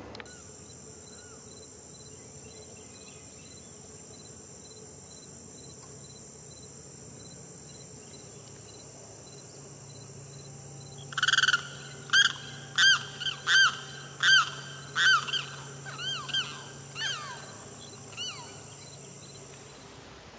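Steady high-pitched insect buzzing with a pulsing note. About halfway through, a bird breaks in with a loud series of about ten arched call notes, slowing and fading away.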